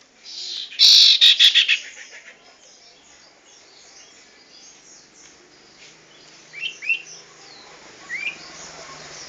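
Pet bird calling: a loud burst of rapid high-pitched notes about a second in, then a few short separate chirps later on.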